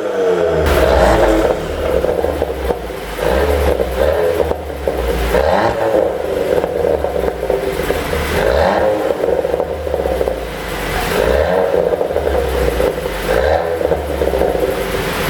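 Volkswagen Golf R's 2.0 TSI turbocharged four-cylinder revving up and falling back again and again, with exhaust pops and crackles on the overrun from a pop-and-bang ECU tune.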